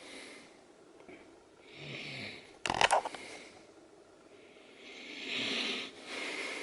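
Pet budgies chattering in soft, raspy bursts, with one short, loud, sharp burst about two and a half seconds in as the aggressive blue budgie goes for the green one.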